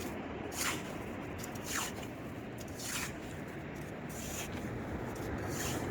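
Footsteps scuffing on beach sand at an even walking pace, about one step a second, over a steady background hiss.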